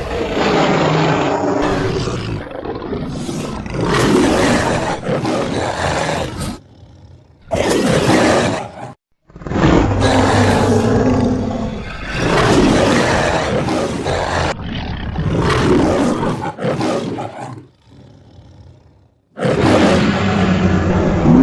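Monster sound effects: a series of loud, rough roars and growls, each one to three seconds long with short breaks between them, and a quieter growl near the end.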